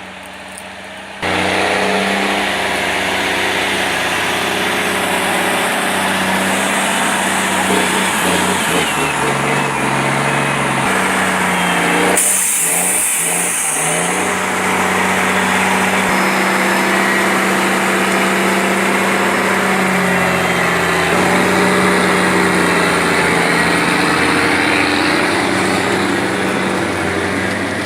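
Heavy log trucks' engines running under load, holding steady notes that shift pitch several times. A short hiss comes about twelve seconds in.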